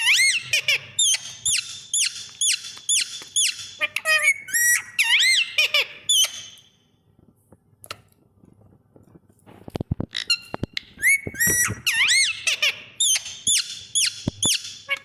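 Pet parrot giving a rapid series of shrill, squeaky calls, about three a second, each rising and falling in pitch. The calls stop for a few seconds midway, and a few sharp clicks come just before they start again.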